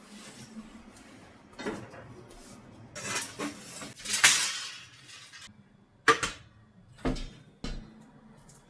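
Kitchen handling sounds: several sharp knocks of things being set down on a counter, with a longer scraping rustle about halfway through.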